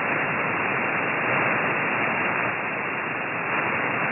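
Steady static hiss from a radio receiver tuned to 27.580 MHz on the 11-metre band with no station transmitting: band noise through the receiver's narrow voice passband, with no highs.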